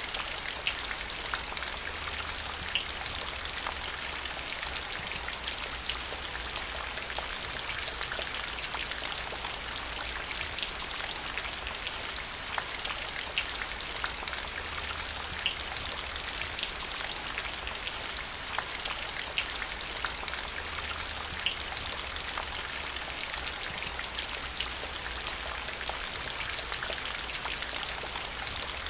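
Steady rain: a constant hiss with many scattered, sharper drop splashes.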